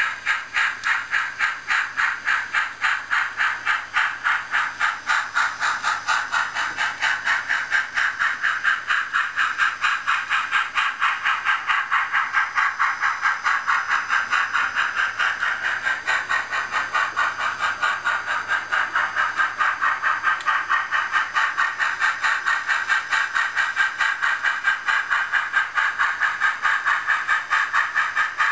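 A train running past with a fast, steady rhythmic beat that keeps an even pace throughout.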